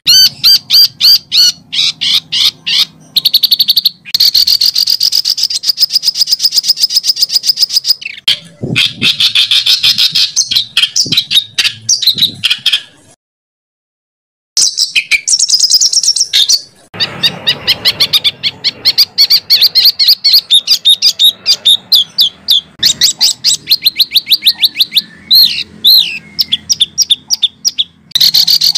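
Songbird song of fast rolling trills: sharp, high notes repeated many times a second in long phrases, with harsher rasping bursts among them. A dead-silent break of about a second and a half comes midway.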